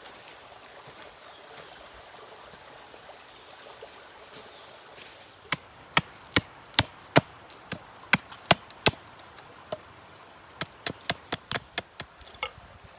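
Wood being chopped with a blade, sharp hard strikes at two to three a second starting about five seconds in, then a quicker run of lighter strikes near the end.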